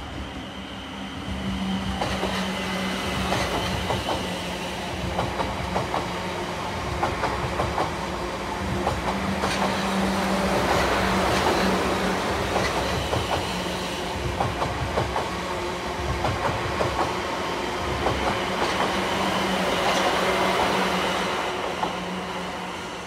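South Western Railway multi-carriage passenger train passing close by, its wheels clicking over the rail joints with a steady low hum underneath. It grows loud about a second and a half in and begins to fade near the end as it moves away.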